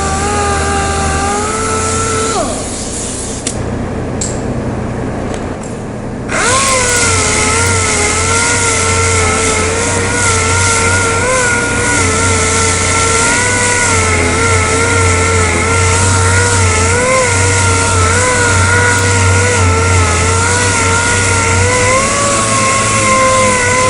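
A dual-action sander running on the bumper repair, its whine wavering in pitch as it is pressed against the work. It winds down about two and a half seconds in and starts up again about six seconds in.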